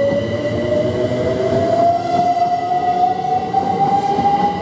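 Class 387 electric multiple unit pulling away and accelerating, its traction motors giving a whine that rises steadily in pitch over the rumble of the wheels on the rails.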